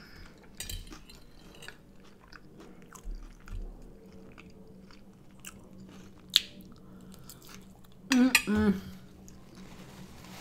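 Close-up chewing and mouth sounds of a person eating from a fork, with scattered light clicks. There is one sharp click a little after six seconds in, and a short murmur from the eater's voice about eight seconds in.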